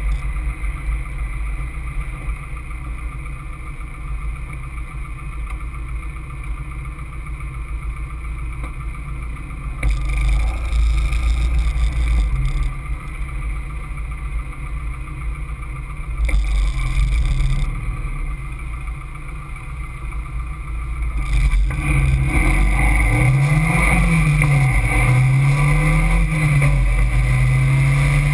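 Caterham Seven's engine heard from the open cockpit, running steadily at low revs for about twenty seconds. It then accelerates hard, the pitch climbing and dropping through several gear changes.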